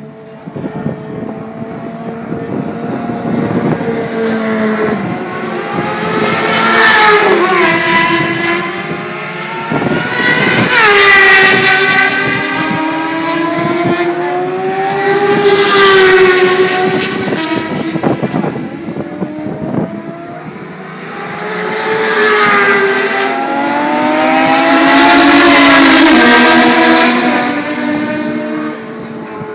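Racing motorcycle engines revving hard, climbing in pitch and dropping back as they shift through the gears. The sound swells loud and fades again four times, about 7, 11, 16 and 25 seconds in.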